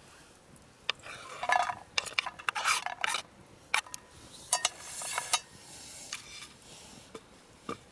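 Cooking utensils clinking and scraping against cookware, in a quick run of clicks and scrapes, then a few lone clicks near the end.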